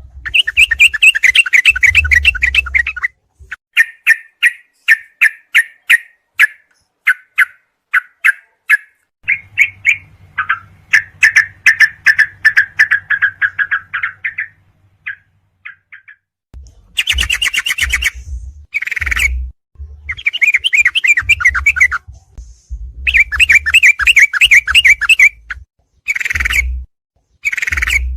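Yellow-vented bulbul (trucuk) song recording: loud runs of rapid chirped notes, repeated phrase after phrase, breaking off suddenly and starting again several times. A low rumble sits under some of the phrases.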